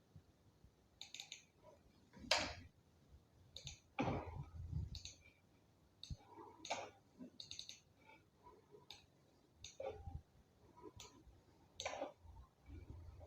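Faint, irregular clicks of a computer mouse and keyboard as activities are typed and clicked into scheduling software.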